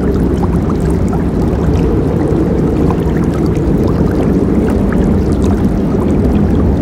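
Forest river flowing steadily: a deep, constant rush of water with many small splashes and gurgles over it.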